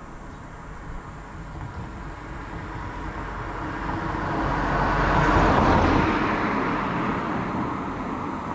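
A car passing by: its noise grows louder to a peak a little past the middle, then fades away.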